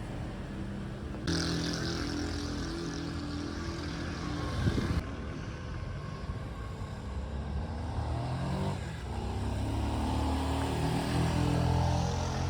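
Motor vehicle engine running in traffic, its pitch stepping up and down as it accelerates and changes gear, with road noise. A short loud knock comes about four and a half seconds in.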